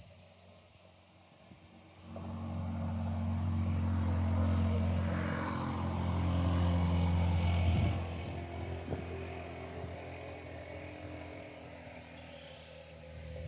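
A passing engine-driven vehicle. A low engine hum with a rushing noise comes in suddenly about two seconds in, stays loud for several seconds, then fades away.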